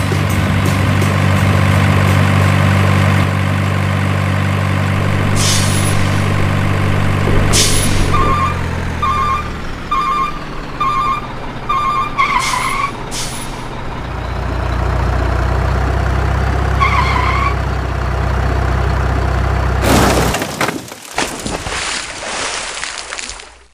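Heavy truck sound effects: a low diesel engine idling with two hisses of an air brake, then five short beeps and a lower engine rumble. Near the end there is a loud crash as the dump truck tips over.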